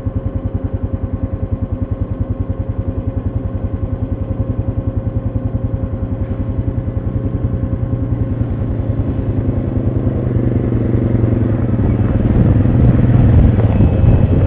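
ATV engine running with a steady, even throb at low speed. It gets louder and busier from about ten seconds in.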